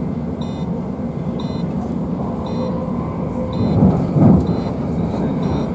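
Cabin noise of a Class 345 electric multiple unit running: a steady rumble, with a faint short high tick about once a second and two louder low bumps about four seconds in.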